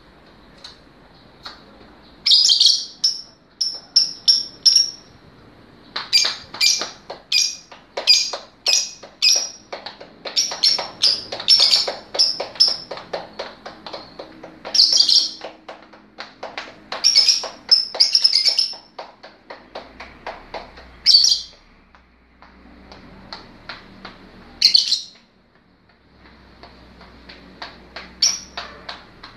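Lovebird chattering in long volleys of rapid, shrill chirps, several a second, thinning to scattered single calls in the last third.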